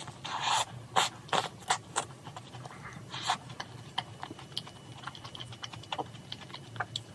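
A bite into a crisp shell-shaped macaron (jogaerong), then chewing close to the mic: a string of sharp crunches in the first few seconds, thinning to many small mouth clicks.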